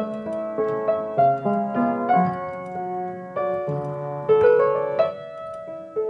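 Background music: solo piano playing a slow melody with chords.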